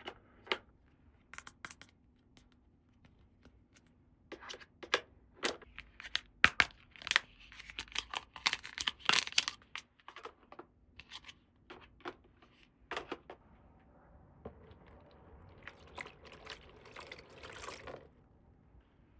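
Toy packaging being opened and handled by hand: scattered sharp plastic clicks and taps, a denser stretch of tearing and crinkling about halfway through, and a softer rustle near the end.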